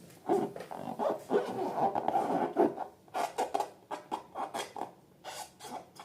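Slime being squished and worked by hand with balloons: a run of quick sticky clicks and crackles, with a denser rubbing, stretching stretch through the first half.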